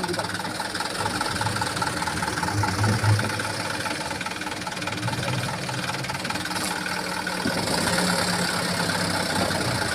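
Dump truck's diesel engine idling steadily.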